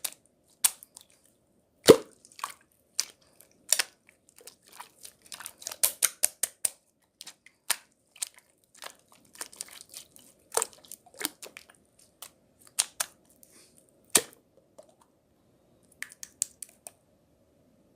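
Close, irregular crunching and crackling, a few sharp crunches louder than the rest, separated by short quiet gaps.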